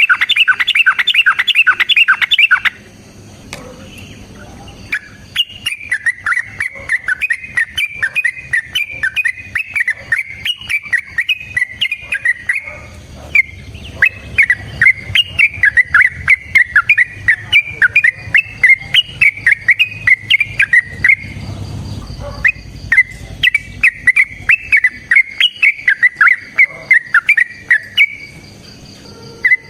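Yellow-vented bulbul (trucukan) singing long, rapid chattering phrases of quick repeated notes. It opens with a loud, dense burst, followed by a brief pause and then several long runs of song with short breaks between them.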